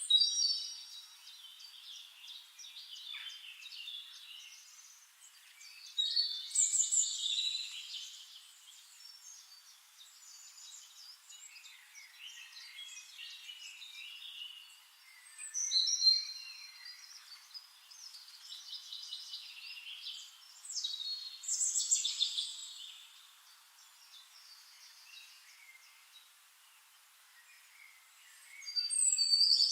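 Songbirds singing: quick, varied warbling phrases at intervals of a few seconds, loudest near the start, at about 6–8 seconds, around 16 and 21–23 seconds, and again at the end, with quieter twittering in between. The sound is thin, with no low sounds at all.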